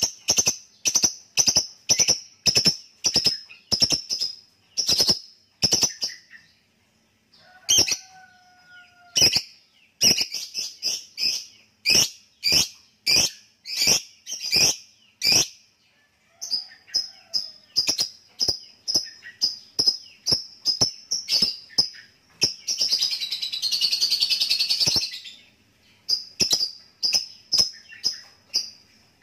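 Lovebird calling in a run of sharp, high chirps at about two a second, the clipped 'ngetik' call, broken by short pauses. A little past two-thirds of the way in it gives one long, continuous chattering trill of about two and a half seconds, the 'ngekek panjang' that lovebird keepers prize.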